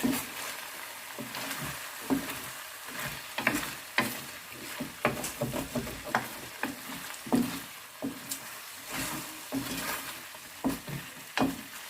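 Chicken and bell pepper stir fry sizzling in a pan as its sauce thickens, with irregular scraping strokes of a spatula stirring it.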